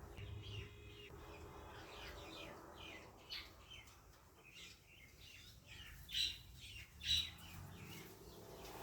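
African grey parrot making a string of soft chirps and clicks, with two louder chirps about six and seven seconds in.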